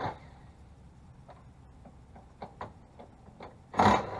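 A few light scattered clicks of tool and metal handling, then near the end a short loud burst from a DeWalt cordless power tool being run briefly.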